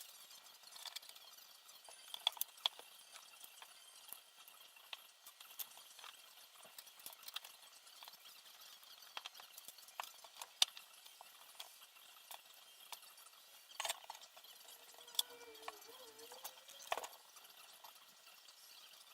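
Light, irregular clicks and taps of small parts and tools being handled during hands-on assembly of a quadcopter frame.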